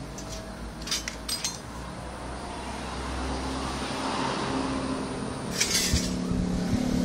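Steady machine hum and noise, with a few short clinks about a second in and a brief rattle near the end.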